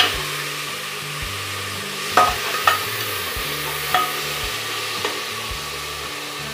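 Chopped tomatoes, green chillies and onions sizzling in hot oil in an aluminium pressure cooker as they are stirred with a long spoon, which clinks against the pot a few times.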